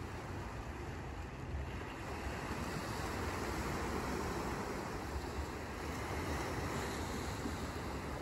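Sea surf washing onto a beach: a steady wash of wave noise that swells louder about two seconds in.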